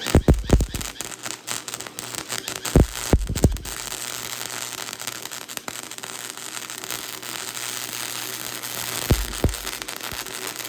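Flux-core wire welder laying a weld bead: a steady, dense crackling and sizzling of the arc that starts abruptly and cuts off suddenly. Louder pops come near the start, around three seconds in, and again near nine seconds.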